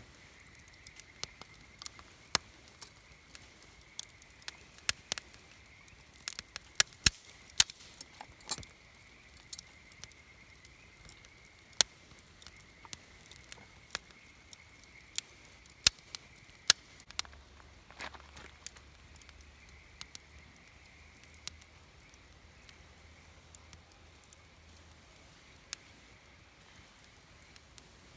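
Wood campfire crackling, with irregular sharp pops of varying loudness, several much louder than the rest.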